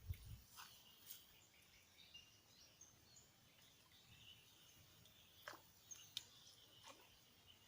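Near silence: faint outdoor ambience with a few faint high bird chirps and occasional light clicks.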